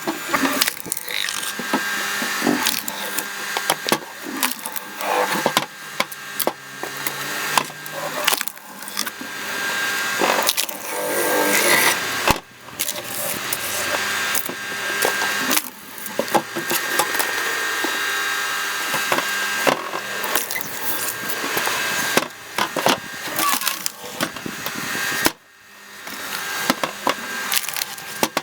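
Screw cone log splitter boring into a log: dense, irregular cracking and splintering of the wood over a faint steady machine hum, with two short pauses.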